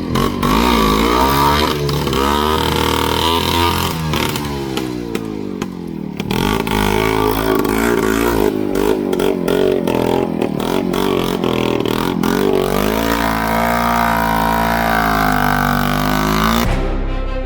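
Tractor engine revving hard under load, the pitch rising and falling again and again as it works through mud. The sound cuts off suddenly near the end.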